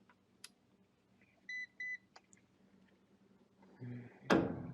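Two short electronic beeps in quick succession, a few light clicks, then a loud sharp knock near the end over a low hum.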